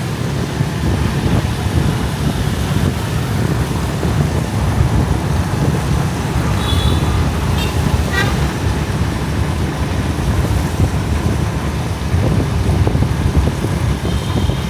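Steady road and engine noise of riding a motorbike through city traffic, with two short high horn toots, one about seven seconds in and one near the end.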